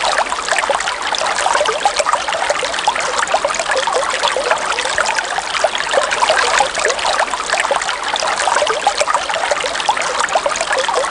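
River water trickling and babbling steadily, a dense run of small splashes and gurgles without a break.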